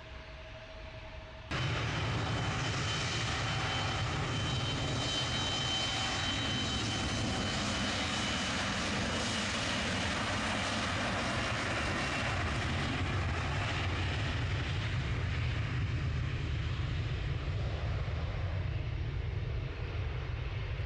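Airliner's jet engines running, a steady rush with a faint high whine, cutting in suddenly about a second and a half in.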